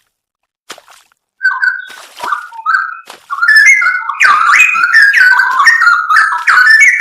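Straw-headed bulbul (cucak rowo) singing: short whistled phrases start about a second and a half in, and from about three seconds in the song becomes loud and continuous, a rich run of quickly gliding, bubbling whistles.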